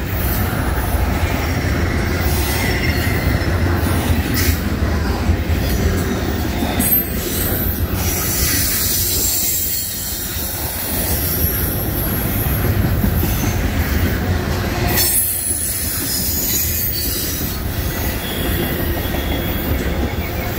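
Double-stack intermodal freight cars rolling past close by: a steady, loud rumble of steel wheels on the rails, with high thin wheel squeal over it and a few sharp clicks.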